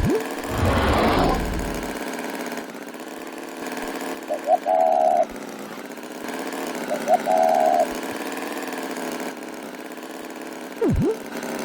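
A steady engine running, with two short beeping tones a few seconds apart, a brief rushing burst about a second in, and quick swooping sound effects at the start and near the end.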